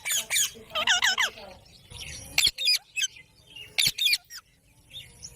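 Pet green parrot calling: a string of shrill, high-pitched calls, a couple of quick clusters in the first second or so, then single short sharp calls with pauses between them.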